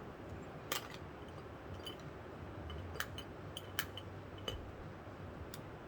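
A handful of faint, sharp clicks and taps from small objects being handled, spaced roughly a second apart, over a low steady hum.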